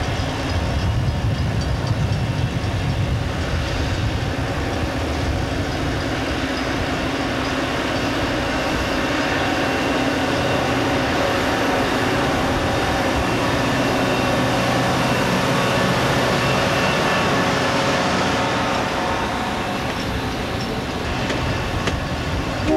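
Caltrain EMD F40PH diesel locomotive and its bi-level commuter coaches rolling past close by: the diesel engine's rumble mixed with steady wheel-on-rail noise.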